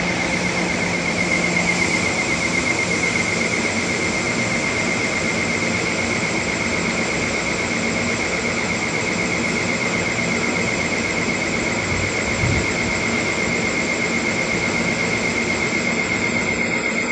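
A steady, high-pitched metallic squeal from the railway with a fast wobble in it, holding one pitch throughout. A soft low thump comes about twelve seconds in.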